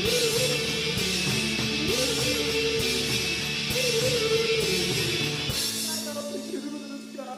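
Indie rock music: guitar with a wavering sung or played melody over a steady lower note. About five and a half seconds in, the low end drops out and the music thins and quietens.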